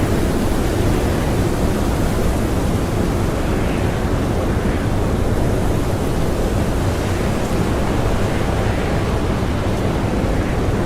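Blizzard wind blowing steadily and strongly, a dense rushing noise heaviest in the low end that swells and eases slightly.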